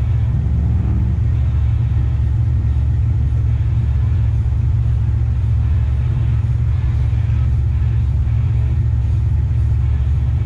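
Chevrolet Nova's engine idling at a stop, a steady, loud, deep rumble.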